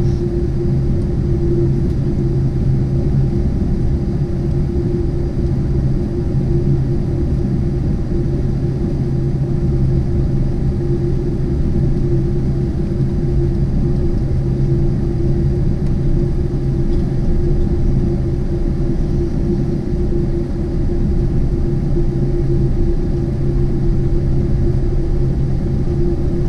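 Steady low rumble inside the cabin of a Boeing 747-8 taxiing after landing, with a constant droning hum over it.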